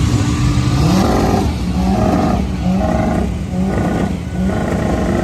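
Car engine revved several times in quick succession, a rising rev followed by four or five short revs at the same pitch.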